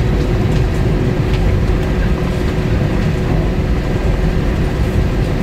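Steady low rumble inside the cabin of an Airbus A320-232 from its IAE V2500 engines and the airframe, with a few faint constant tones above it and no change in level.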